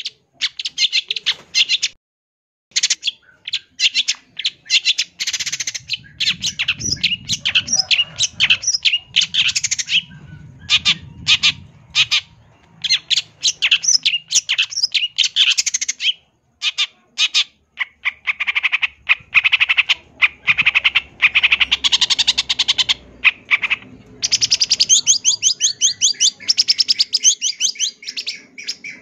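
Long-tailed shrike (cendet) singing a fast, harsh, chattering song packed with mimicked calls of other birds, in rapid runs of short high notes, with a brief pause about two seconds in.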